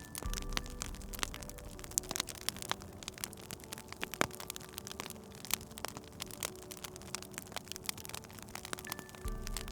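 Wood fire crackling, with frequent irregular sharp pops. Soft background music with slow held notes plays underneath.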